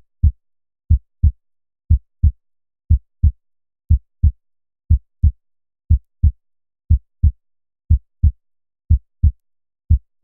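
Heartbeat sound effect: steady double thumps, one pair about every second, with dead silence between the beats.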